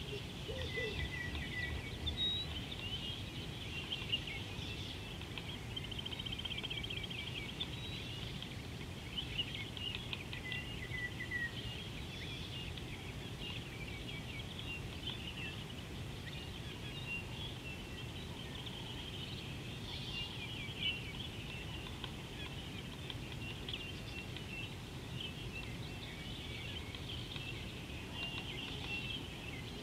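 Several wild birds calling and chirping over one another, with short whistled notes and a rapid trill, over a steady low rumble.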